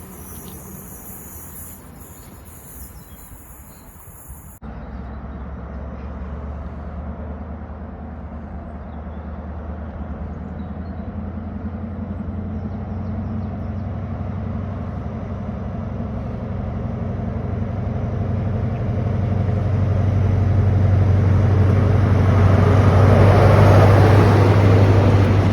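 Diesel train engine with a steady low hum, growing steadily louder as the train approaches the platform. There is an abrupt cut to a new shot about four and a half seconds in.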